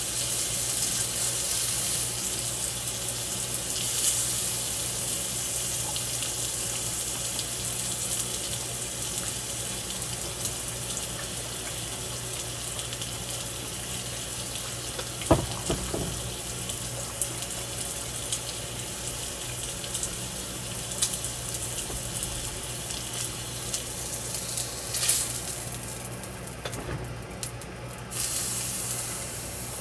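Meat sizzling on a hot grill plate: a steady hiss dotted with small crackles, with a couple of sharper knocks about halfway through.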